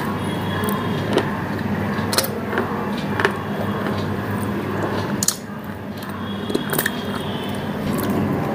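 Close-up mouth sounds of chewing a crunchy food, with a few sharp crunches scattered through, over a steady low hum.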